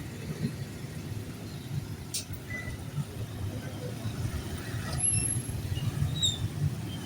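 Steady low vehicle rumble, with a sharp click about two seconds in and a few faint high chirps in the second half.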